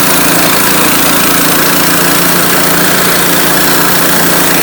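Sawmill engine running steadily under load while the blade cuts lengthwise through a large oak log, a constant mechanical drone with a hiss of cutting over it.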